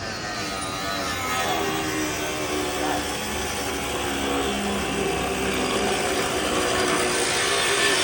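Power tool cutting into a metal coin machine, running steadily and loudly with a harsh grinding noise.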